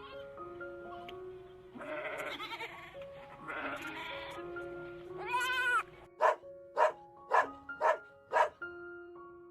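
A farm animal bleating: three wavering calls, followed by five short sharp calls about half a second apart, over background music with sustained notes.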